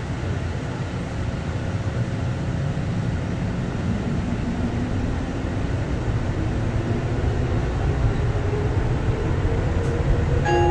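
Denver airport's underground automated people-mover train running through its tunnel, heard from inside the car: a steady low rumble with a faint whine that rises in pitch as the train picks up speed, the noise slowly growing louder.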